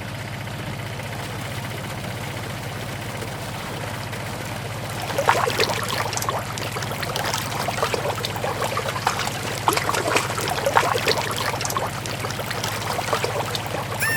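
A small DIY mini tractor motor running with a steady low hum. From about five seconds in, a pouring sound made of many small splashes and patters joins it, as material is tipped out.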